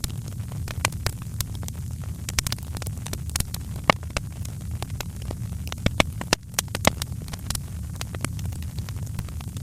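Wood fire in a fireplace crackling, with irregular sharp pops (a few louder ones about four seconds in and around six to seven seconds) over a steady low-pitched noise.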